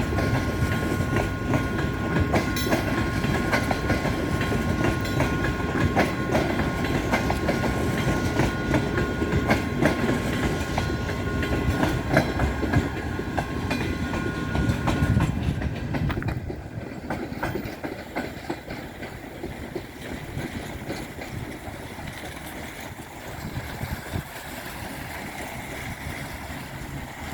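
Passenger train rolling past, its carriage wheels clacking over the rail joints, with a steady high whine over the rumble. About halfway through the whine stops and the train sound drops and fades.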